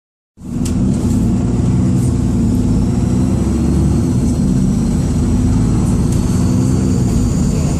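Dennis Trident II / Alexander Dennis Enviro400 double-decker bus heard from on board: the diesel engine runs steadily under a thin, high, kettle-like turbocharger whistle that rises slightly near the end. A few short rattles come in the first couple of seconds.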